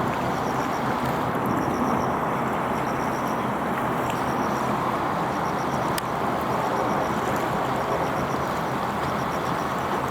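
Steady outdoor rumble of traffic, with faint runs of high chirping over it and a single sharp click about halfway through.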